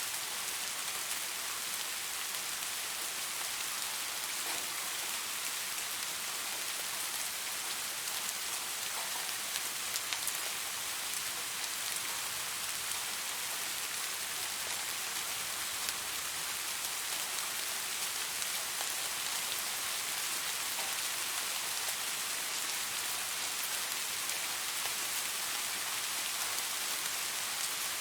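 Steady rain falling on leaves: an even hiss of many drops, with a few louder individual drops standing out.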